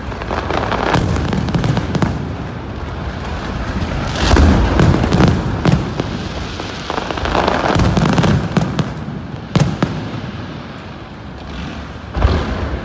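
Fireworks display: a continuous run of aerial shell bursts, deep booms mixed with sharp cracks, heaviest about four seconds in and again around eight seconds.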